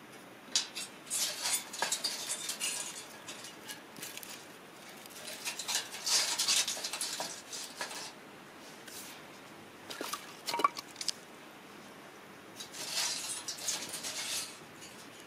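Metal camp cookware and utensils clinking and scraping in four short bursts of rattling clicks.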